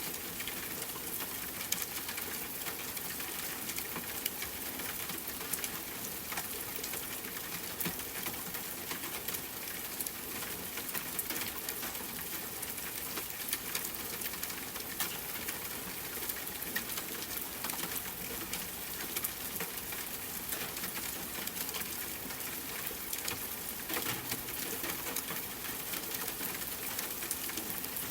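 Steady rain hiss mixed with campfire crackling: frequent sharp pops and ticks over an even wash of falling rain.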